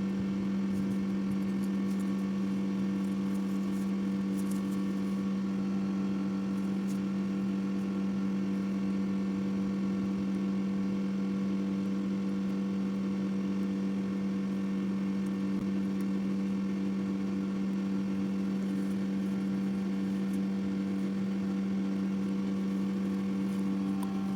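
Steady machine hum at one constant pitch, with a few faint high ticks in the first several seconds.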